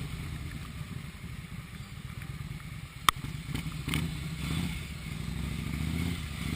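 Motorcycle engine running steadily at low revs, with one sharp click about three seconds in.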